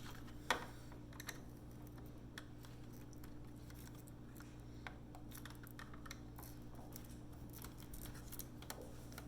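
Faint, scattered clicks and scrapes of plastic wire-harness connectors being pressed and worked loose from a dishwasher control board by hand, over a steady low hum.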